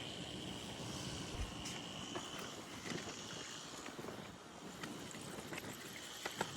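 Steady outdoor background noise with a faint, high, steady whine, broken by a few small clicks and taps. The sharpest click comes near the end.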